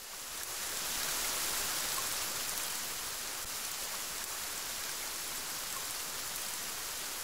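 Steady heavy rain of a summer storm, an even hiss that fades in at the start.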